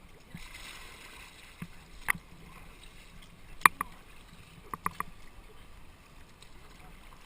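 Paddling on a river, with the wash of water and a handful of sharp hard knocks, most likely paddles striking the boat or each other. The loudest knock comes about three and a half seconds in, and three quick ones follow about a second later.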